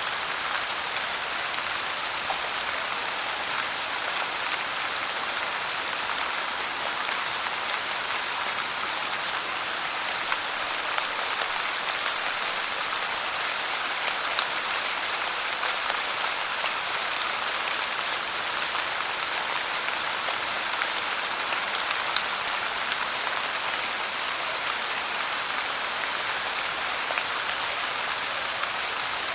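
Steady rain falling: an even hiss with faint, scattered drop ticks, unchanging throughout.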